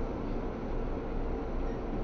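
Seibu 2000 series electric commuter train heard from inside a passenger car: a steady rumble with a faint constant hum underneath.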